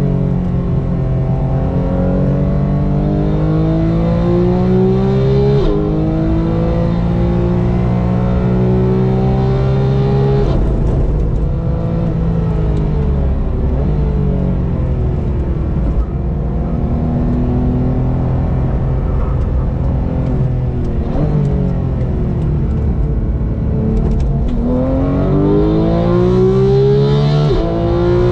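A car engine on a race circuit, heard continuously as if from on board, accelerating hard with pitch climbing through the gears. Its pitch drops sharply at upshifts, about six seconds in and again near the end, and falls away under braking and downshifts twice in between.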